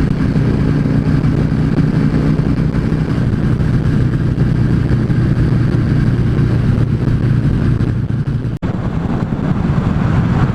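Yamaha V Star 650's air-cooled V-twin running at a steady cruising speed on the highway. The sound cuts out for an instant about eight and a half seconds in.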